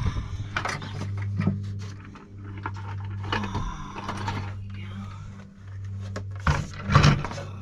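Rotted camper wood being pried and broken out: a run of knocks, cracks and scrapes, with two loud knocks near the end, over a steady low hum.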